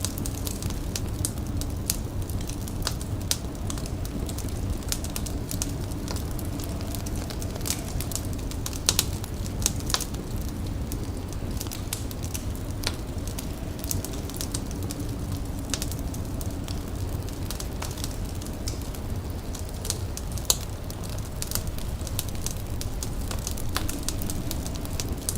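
Fire crackling, with scattered irregular pops and snaps over a steady low rumble.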